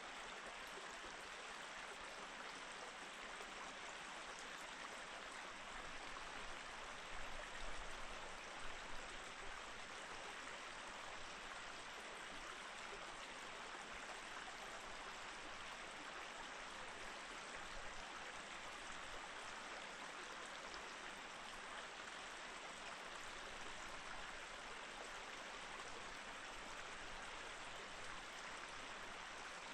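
Mountain stream running over rocks: a steady, even rush of flowing water, with a few brief low bumps about a quarter of the way through.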